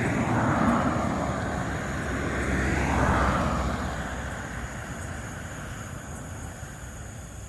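Road traffic passing close by: the noise swells twice, about three seconds apart, then fades away.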